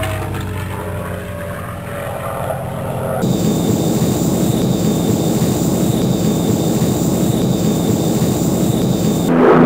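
Dubbed-in propeller aircraft engine droning. The sound switches abruptly about three seconds in to a noisier, hissier engine sound with a thin high whine, and again just before the end to a louder, deeper drone.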